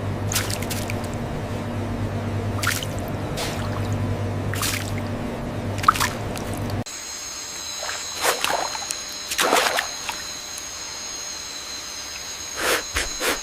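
Water dripping and splashing in short, scattered strokes. For the first seven or so seconds there is a low steady hum underneath; then the background changes suddenly to a high steady whine.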